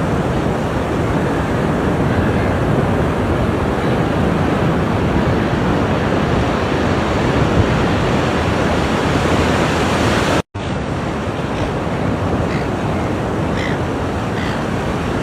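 Ocean surf washing steadily onto the shore, a dense rushing noise that cuts out for an instant about ten seconds in.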